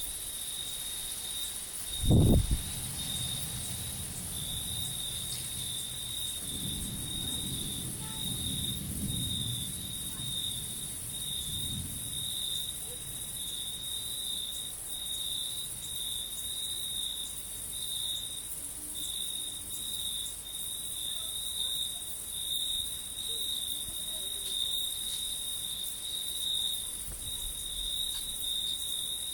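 Crickets and other insects chirping steadily, with a short low thump about two seconds in and a low rumble of thunder lasting several seconds from about six seconds in.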